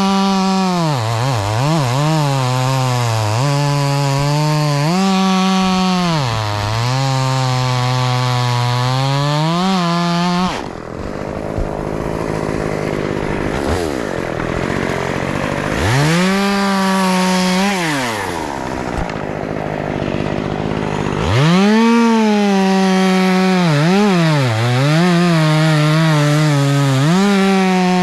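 Two-stroke chainsaw cutting at full throttle, its pitch dipping and recovering as the chain bogs in the wood. In the middle it drops to a lower, uneven running for about ten seconds with one brief rev-up, then goes back to full speed and cutting.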